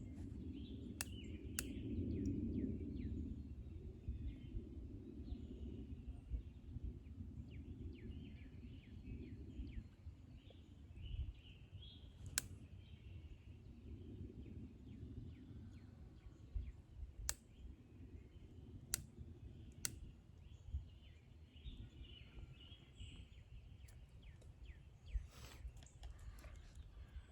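Outdoor ambience: wind rumbling low, strongest in the first few seconds, with small birds chirping throughout. A handful of sharp single clicks are scattered through it.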